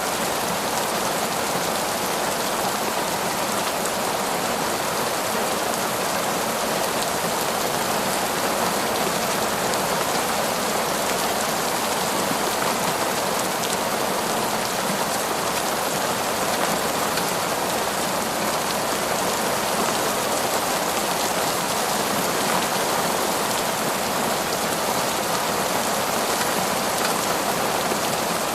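Heavy torrential rain pouring steadily in a forest, an even dense hiss of drops with no let-up.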